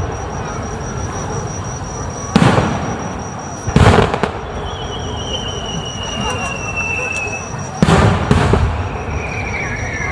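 Aerial fireworks shells bursting: three loud booms, about two and a half, four and eight seconds in, each trailing off in a rumble. A thin steady high tone runs underneath, and a long, slowly falling high whine comes in twice.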